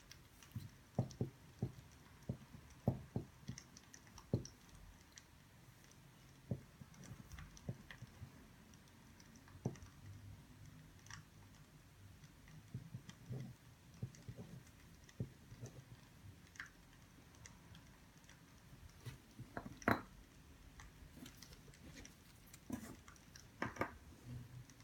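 Scattered faint taps, clicks and soft knocks, irregular and a second or so apart, with a louder knock about twenty seconds in and another pair near the end.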